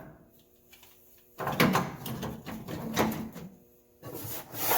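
Tools and boxes being handled and shifted in a service-truck tool drawer: about two seconds of clattering and scraping from about a second and a half in, then another short scrape near the end.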